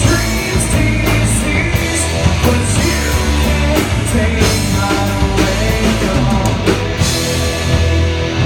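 Loud live rock band playing, with drums hitting steadily over a sustained bass and guitar, and a singer.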